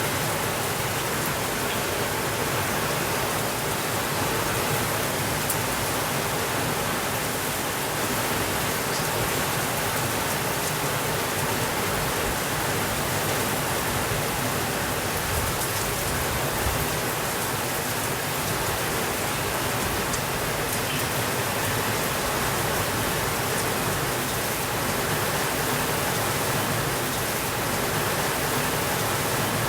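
Steady rainfall, an even hiss of rain falling on surfaces, with a few faint scattered ticks of single drops.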